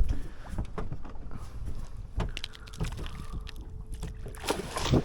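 Scattered knocks and clicks of gear being handled aboard a small fishing boat, over a low wind rumble, with a faint steady hum in the middle.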